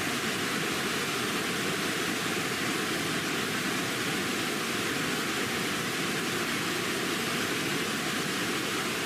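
Steady, unbroken rush of falling water from a waterfall, even across low and high pitches, with no other sound over it.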